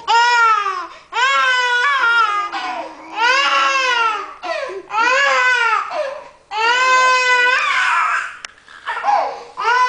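A young child crying loudly in a string of long wails, each about a second long, rising then falling in pitch, with short catches of breath between them.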